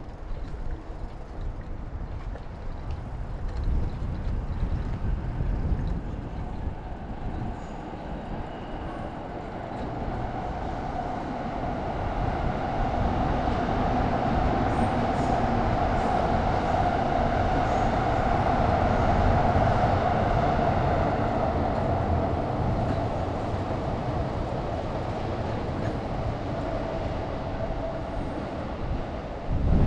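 A train passing, its running sound swelling to a peak past the middle and then easing off, over a low rumble.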